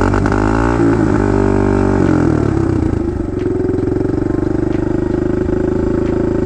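Kawasaki KLX110 dirt bike's small single-cylinder four-stroke engine running just after being restarted, revved up and down for the first couple of seconds, then settling into a steady idle. The engine had been a little flooded from the bike falling on its side.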